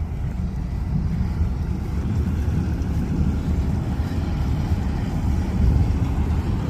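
Steady low rumble of running engines and machinery, without distinct knocks or a clear rhythm.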